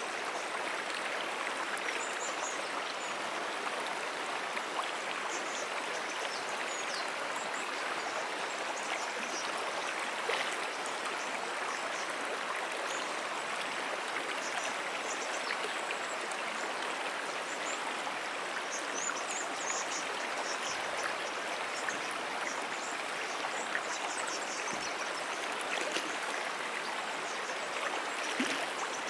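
Brook flowing steadily, an even, unbroken rush of running water, with faint short high chirps scattered over it now and then.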